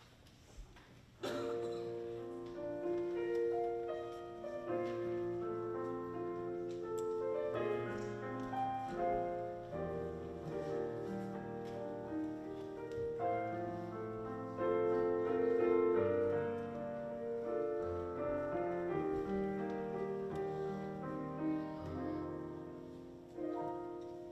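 Piano playing an introduction to a gospel song, with chords and melody notes ringing over one another, starting about a second in after a moment of quiet.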